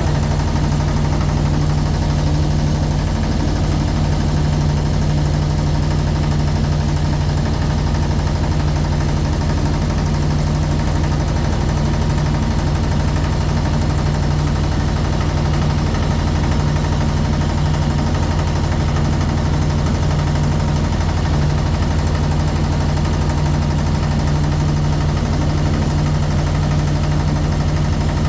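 Motorboat engine running steadily at an even speed, a constant low drone.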